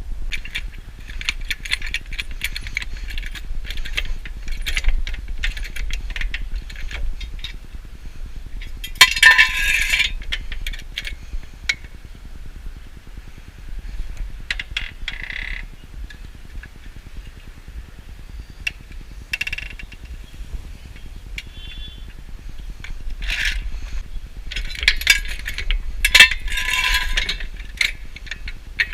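Metal hand tools clicking, clinking and scraping against car parts, with two louder scraping bursts, one about nine seconds in and one near the end.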